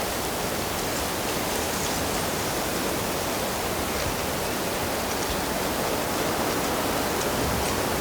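Steady rushing of flowing stream water, an even wash of noise that holds at one level throughout.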